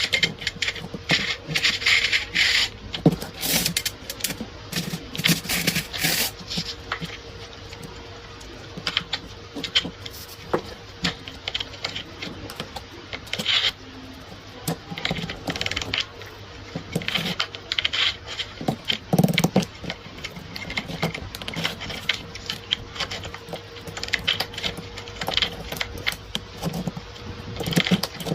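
Irregular metallic clicks, knocks and scrapes of gun parts and tools being handled during repair of a rusted gun, over a faint steady hum.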